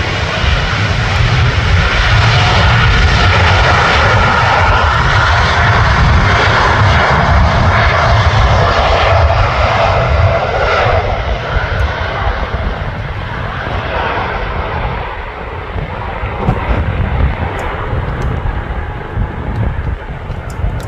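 Jet airliner engines, with a faint steady whine over the roar, loudest in the first half and fading from about halfway through. Wind buffets the microphone with a heavy low rumble throughout.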